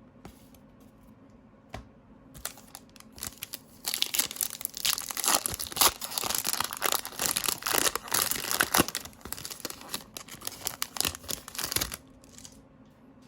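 Foil trading-card pack wrapper being torn open and crinkled by hand: a few sharp crackles, then several seconds of dense crinkling that stops near the end.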